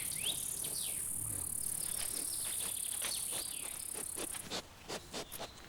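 Insects chirring in a steady high-pitched drone that stops about four and a half seconds in, with a few short falling bird calls near the start; faint scattered ticks follow.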